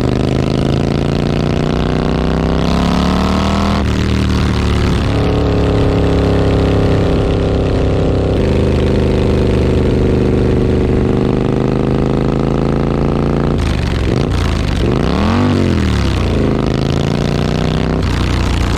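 Triumph Street Scrambler's parallel-twin engine through an aftermarket British Customs exhaust, pulling with pitch climbing steadily, in several short clips joined by abrupt cuts. About three-quarters of the way through, one quick rev rises and falls.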